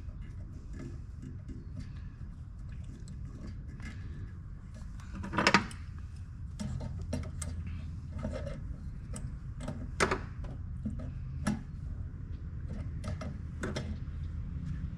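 Hand tools and metal parts being handled: scattered clicks and knocks over a steady low hum, with a sharp knock about five and a half seconds in and another about ten seconds in.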